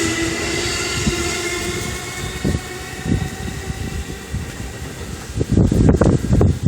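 An electric commuter train decelerating: its running noise carries a steady motor whine that falls gently in pitch and fades as the train brakes toward a stop. From about five seconds in, a few dull low thumps stand out.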